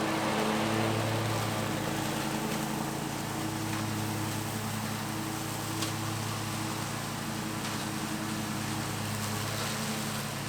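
Bad Boy Maverick zero-turn mower's engine running steadily under load: a constant engine hum with a broad rushing noise over it.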